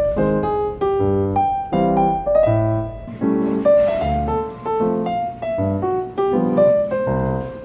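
Background music: a piano melody with bass notes in a steady, even rhythm.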